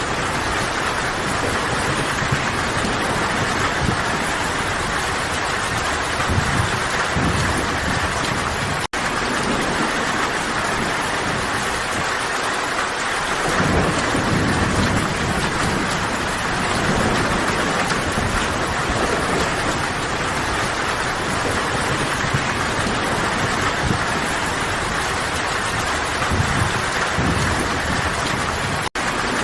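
Steady heavy rain falling, a dense even hiss, with low thunder rumbling up a few times. The sound cuts out for an instant twice.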